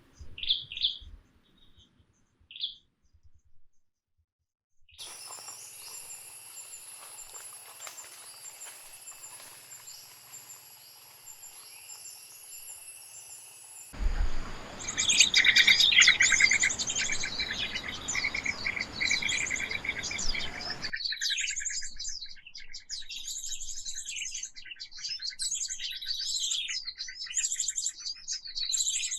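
Wild birds chirping and calling in a forest: a few short calls, a brief silent gap, then dense chirping with a steady high drone behind it. The ambience changes abruptly three times, at about 5, 14 and 21 seconds in, as if separate recordings were cut together.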